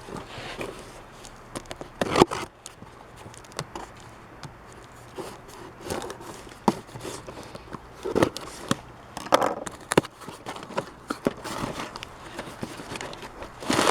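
Hands opening mail packaging: irregular rustling, crinkling and scraping with scattered clicks and taps.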